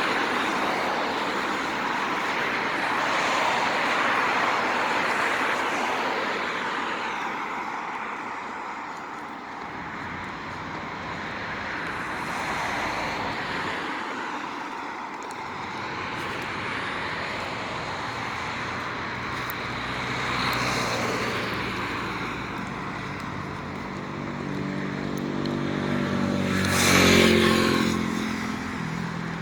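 Road traffic: a steady rush of passing cars, with one vehicle passing close about three-quarters of the way through. Its engine note falls in pitch as it goes by.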